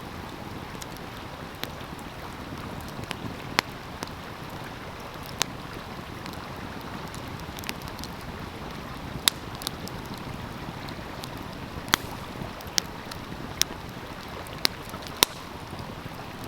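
Wood fire crackling, with sharp irregular pops, about a dozen, over the steady rush of a flowing stream.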